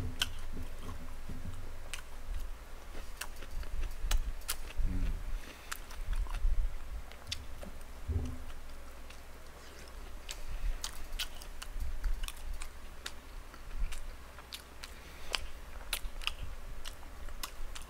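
Close-miked chewing and biting of boneless fried chicken: crunches and sharp wet mouth clicks scattered throughout, with a few low thumps around the middle.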